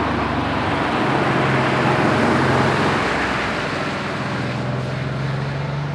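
Old Porsche driving past with its engine running loud and steady, growing louder as it comes close about two seconds in and then fading as it moves away.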